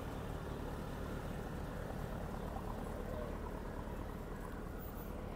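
Lamborghini Urus twin-turbo V8 idling at the kerb: a steady low rumble with no change in pitch.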